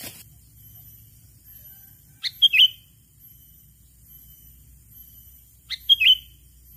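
Sooty-headed bulbul (kutilang) giving its characteristic short call of a few quick notes, twice, about three and a half seconds apart. This is the call used to lure rival bulbuls.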